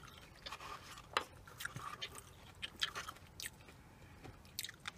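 Close-up chewing of soft takeout food (fish tacos and Mexican rice): irregular short mouth clicks.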